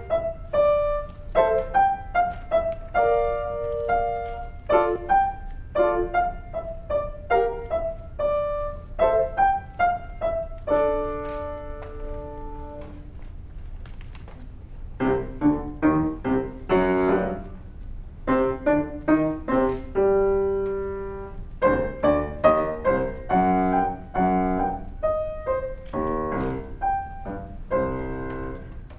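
Solo piano playing a short piece. Detached single notes and chords come at an even pace, and a chord is held about eleven seconds in. After a brief softer stretch, a busier passage follows that reaches lower in pitch.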